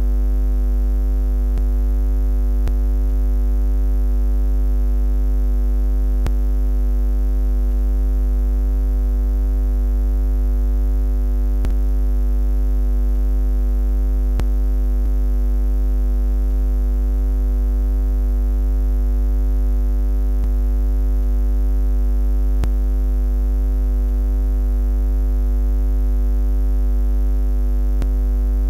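Steady low buzzing drone: a continuous hum with a stack of overtones that holds the same pitch and loudness without change.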